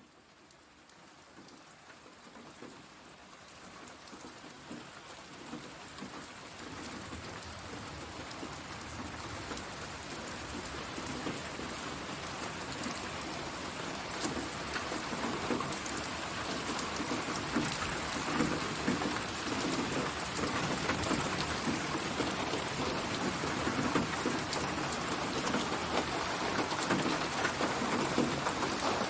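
Steady rain pattering on a surface, swelling up gradually over the first several seconds before holding steady, with a low rumble underneath.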